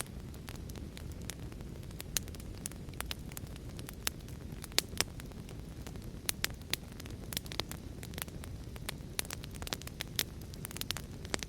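Wood fire crackling in a fireplace, with irregular sharp pops and snaps several times a second over a steady low rumble.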